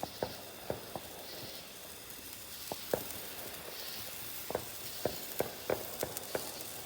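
Fireworks going off in the distance: about a dozen sharp, irregular pops and bangs over a steady hiss.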